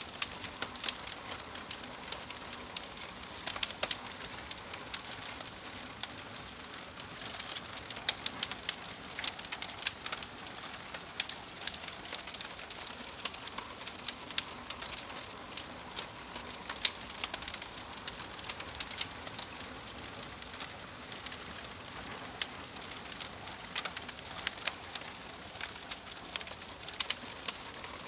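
Crackling fire: irregular sharp pops and snaps over a steady hiss.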